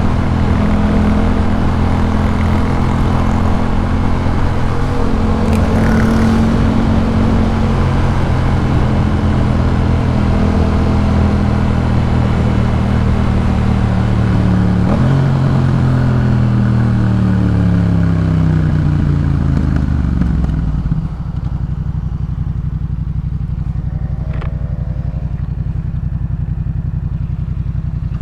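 2018 Yamaha MT-07's parallel-twin engine through a Jeskap K4 full exhaust, running at a fairly steady pace. Its pitch then falls as the bike slows, and it settles into a steady idle about three quarters of the way in.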